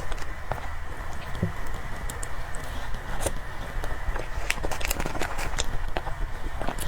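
Close-miked eating sounds of someone eating cream cake: soft chewing with irregular wet mouth clicks and smacks, a few sharper ticks, over a steady low hum.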